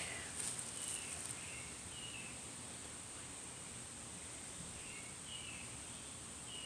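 Outdoor ambience: a steady high-pitched insect drone with short bird chirps scattered through it, and a few faint crackles in the first second or so.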